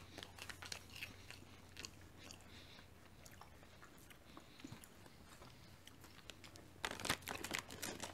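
Faint crunching of Flings maize puffs being bitten and chewed. Near the end, a louder rustle as the snack packet is handled.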